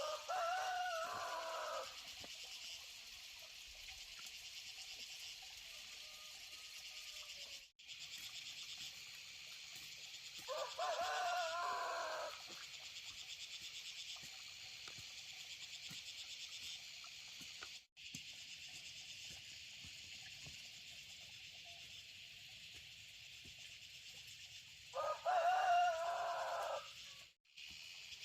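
Rooster crowing three times, each crow about two seconds long, over a steady high drone of insects. The sound cuts out for an instant a few times between the crows.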